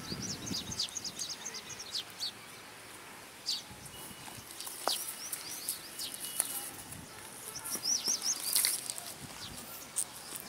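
Small birds chirping in quick runs of short high notes, thickest at the start and again a little before the end. A few soft clicks and tearing sounds come through, which fit the cow cropping grass.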